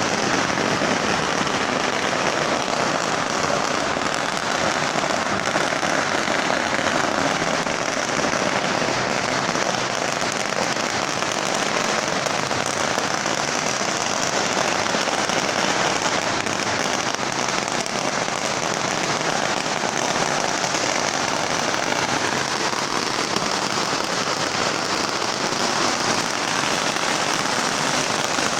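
A long carpet of strung firecrackers burning, a dense, unbroken crackle of rapid small bangs that keeps up steadily.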